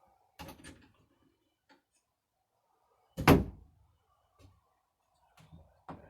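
A door being handled and knocked against its frame: a couple of light knocks just under a second in, one loud thunk a little past the middle, then smaller bumps near the end.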